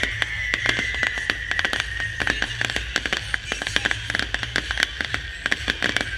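Crackling fireworks: a dense, irregular stream of sharp pops, many a second, over a steady high-pitched wavering sound.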